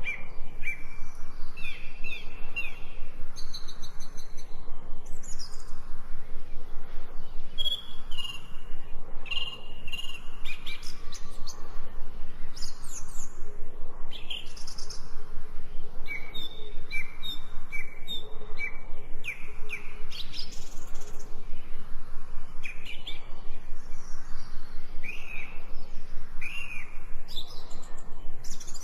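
Birds chirping and singing, with many short whistled notes, some repeated in quick series and some sliding down in pitch.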